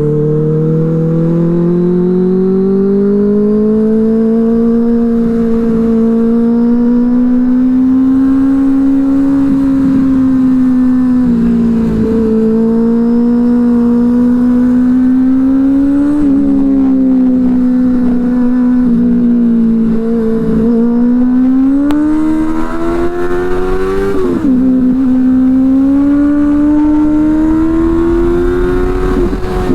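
Benelli 600i inline-four motorcycle engine through an aftermarket IXIL exhaust, heard while riding. The engine note climbs and falls with the throttle and drops abruptly a few times, as at gear changes, before rising again.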